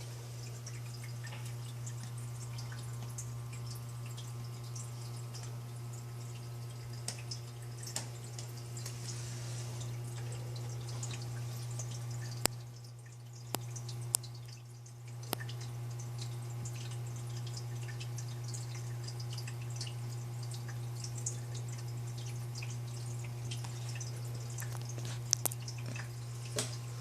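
Water dripping and trickling in a rainforest terrarium's water feature, with scattered drips, over a steady low hum.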